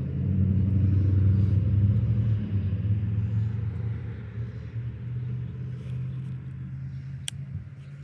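Low engine rumble of a passing motor vehicle, loud at first and fading away steadily, with a single sharp click near the end.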